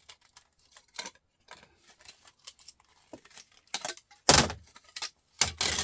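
Small metal laptop parts clicking and clinking as they are handled, then two louder metallic clatters in the second half.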